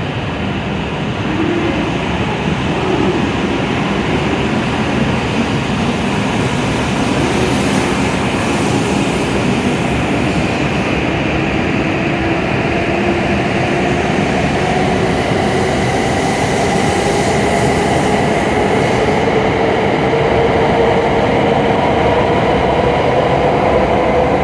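E7 series Shinkansen train pulling away and accelerating. The traction motors give a whine that rises slowly and steadily in pitch over the loud running noise of the train.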